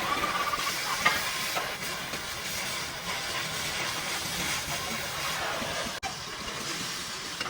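A steady, loud hiss, like air or spray escaping under pressure, which breaks off for an instant about six seconds in.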